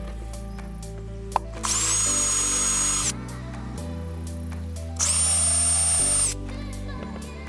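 Power drill running in two bursts of about a second and a half each, a high whine that climbs as it spins up, over background music. A single sharp click comes just before the first burst.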